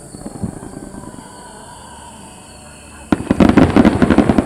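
Aerial fireworks in a rapid-fire barrage: after a quieter stretch, about three seconds in a sudden burst of many bangs and crackles in quick succession.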